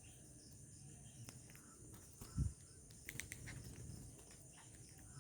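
Steady high-pitched chirring of crickets or other insects, with a dull low thump about two and a half seconds in and a few quick high chirps just after.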